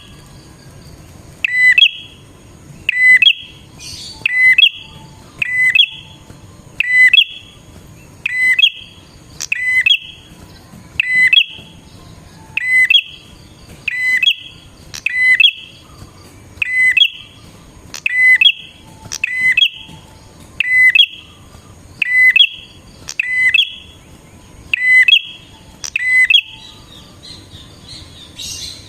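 Prenjak (prinia) calling over and over: a sharp, chirpy burst of quick notes repeated evenly about every second and a half, the kind of call used as a lure to draw in wild prinias.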